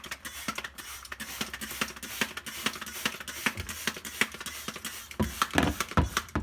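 Trigger spray bottle squirting a vinegar cleaning solution in quick repeated sprays, several a second, with a couple of dull thumps near the end.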